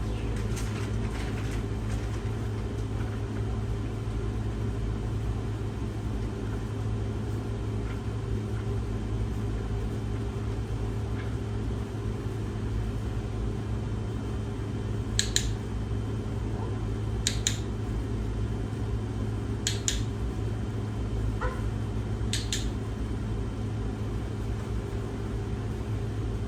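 Steady low mechanical hum, like a fan or appliance running, with four short high clicks or jingles spaced a couple of seconds apart in the second half.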